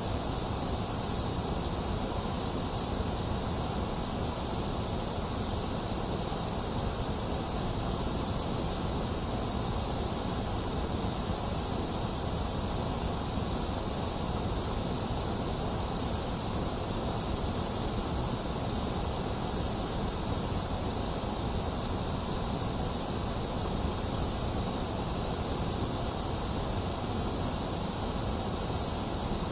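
Box fan running mixed with steady falling rain: an even hiss that stays the same throughout, brightest in the high end.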